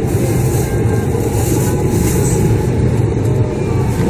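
Steady low rumble of a moving vehicle, with faint whines gliding slowly up and down.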